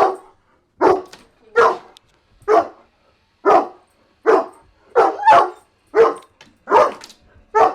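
A herding dog barking repeatedly, about eleven short sharp barks at a steady pace of a little more than one a second, with a quick double bark about five seconds in.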